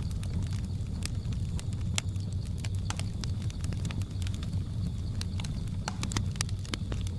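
Wood fire crackling, with many irregular sharp pops and snaps over a steady low rumble of the flames. A faint steady high hiss runs underneath.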